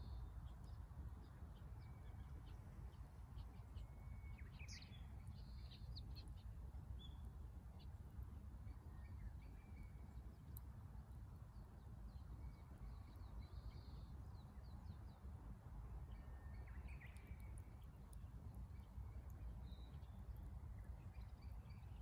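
Faint scattered bird chirps and short calls, one rising call about five seconds in, over a steady low background rumble.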